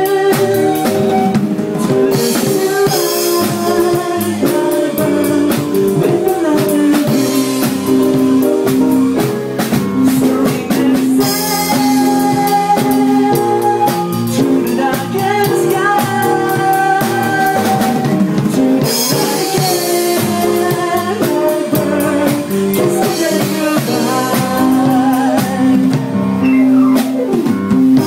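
A small live band playing: a violin melody over keyboard with a drum kit keeping a steady beat.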